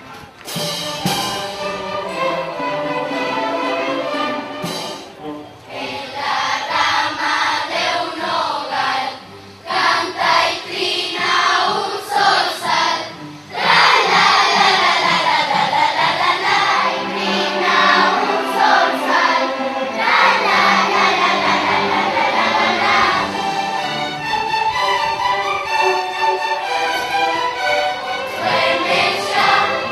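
A choir singing with musical accompaniment, getting louder and fuller about halfway through.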